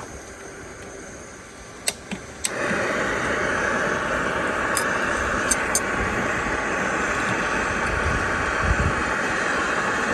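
Portable gas camp stove being lit: two sharp clicks of the igniter, then the burner catches about two and a half seconds in and burns with a steady hiss, heating water for coffee.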